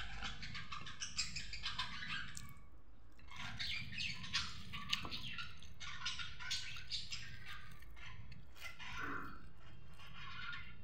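Small birds chirping, many short, quick chirps overlapping one another without a break.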